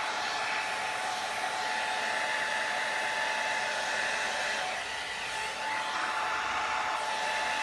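Blow dryer running steadily with a constant motor whine over the rush of air, blowing wet pouring paint across a canvas.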